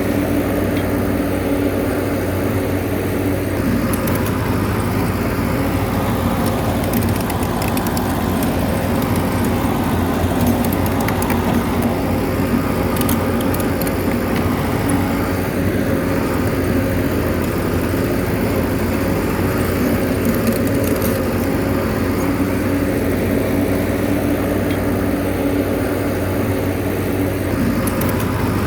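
Bulldozer's diesel engine running steadily, with short faint clicks now and then.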